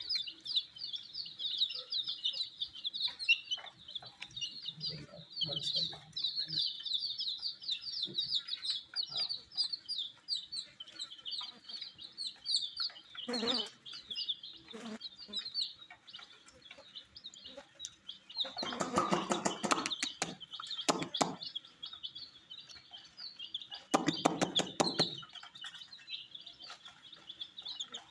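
A group of baby chicks peeping continuously, a dense stream of short high-pitched peeps. Two short bursts of tapping and rustling break in, about two-thirds of the way through and again a few seconds later.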